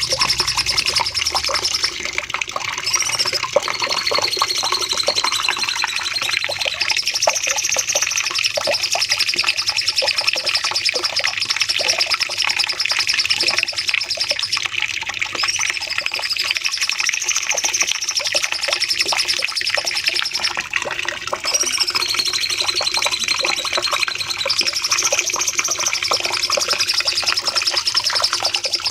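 Cucak cungkok singing long, dense runs of rapid chirps and high whistled phrases without pause, the same phrases recurring about every nine seconds as in a looped recording.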